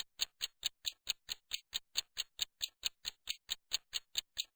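Clock-like ticking sound effect: sharp, identical ticks at about four and a half a second, keeping an even beat like a countdown timer.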